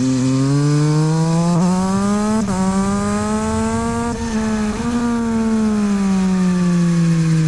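Yamaha MT-09 SP's three-cylinder engine through a LeoVince exhaust, revving up under hard acceleration with two quick gear changes, about a second and a half and two and a half seconds in. Two more short breaks in the note come around four to five seconds in, then the pitch falls slowly as the bike slows.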